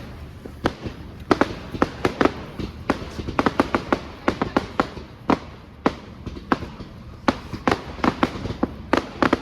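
Fireworks display exploding: an irregular run of sharp bangs and cracks, several a second, some coming in quick clusters.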